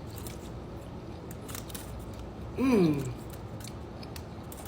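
A person eating, with faint scattered clicks of chewing and mouth noise. About halfway through comes one short 'mm' hum from the eater that falls in pitch.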